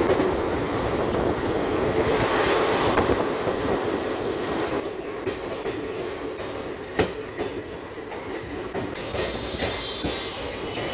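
Passenger train running along the track, heard from an open coach doorway: a steady rush of wind and wheel noise with the clatter of wheels on the rails, and one sharp knock about seven seconds in. A faint high squeal from the wheels comes in near the end.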